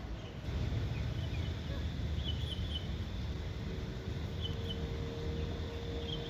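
Outdoor background noise: a steady low rumble with a few faint, short high chirps scattered through it. A faint steady hum joins about three seconds in.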